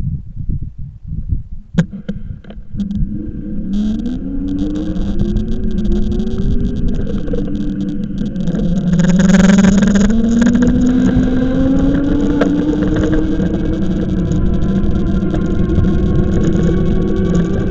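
Electric bike motor whining, its pitch rising slowly and steadily as the bike picks up speed, over wind rumble on the microphone.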